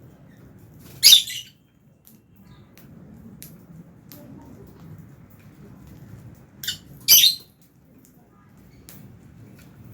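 Lovebirds calling: a loud shrill squawk about a second in, then two more close together about seven seconds in, with faint short chirps in between.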